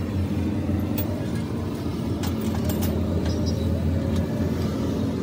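An engine or motor running steadily with a constant hum, with a few light metallic clicks over it.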